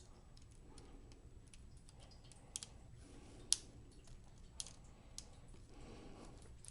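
Faint, scattered clicks and taps of small laptop parts being handled and fitted by hand, with one sharper click about three and a half seconds in.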